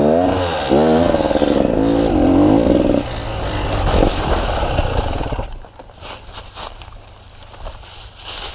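Motorcycle engine revving, its pitch swinging up and down for about three seconds, then a rushing noise and a few scattered scrapes and clattering knocks.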